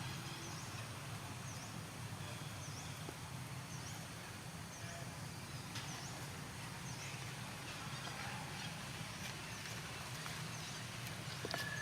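Steady outdoor background with a low hum. A faint, short, high chirp repeats about once a second.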